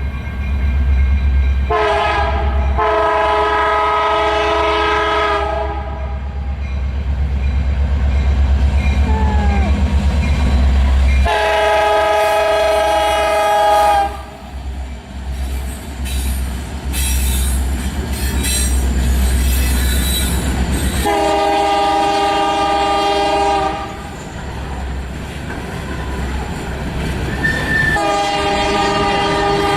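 Diesel freight locomotive's multi-tone horn sounding four long blasts, the last one starting near the end, over the heavy low rumble of the passing freight train and the clatter of its wheels on the rail joints.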